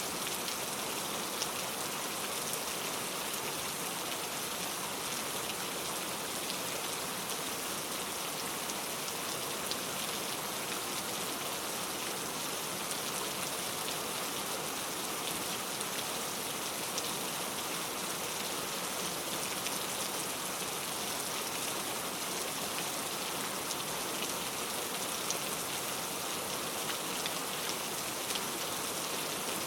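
Steady rain falling, a dense even hiss with many small drop ticks and no thunder.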